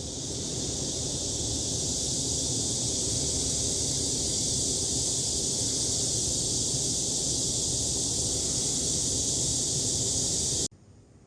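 Heavy rain falling in a steady hiss, which cuts off suddenly near the end.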